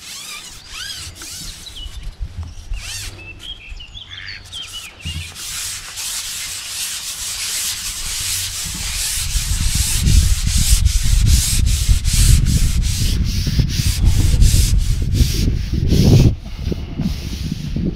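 Damp groundbait crumb being squeezed and rolled between the hands into balls: a gritty rubbing in repeated short strokes, growing louder after a few seconds. Birds call faintly near the start, and wind buffets the microphone in the second half.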